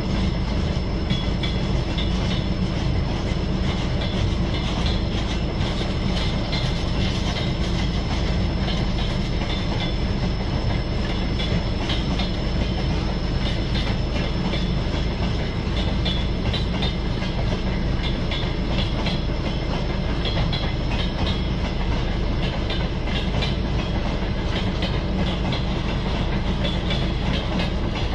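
Freight train rolling along the rails: a steady low rumble with the wheels clicking over rail joints throughout.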